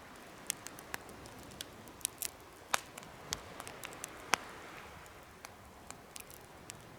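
Wood campfire in a homemade fire stand, crackling with sharp, irregular pops over a steady low hiss.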